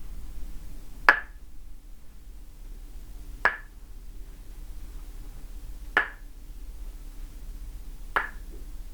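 Tok sen wooden mallet striking a wooden stake held against the body: four sharp, slightly ringing knocks, about one every two and a half seconds.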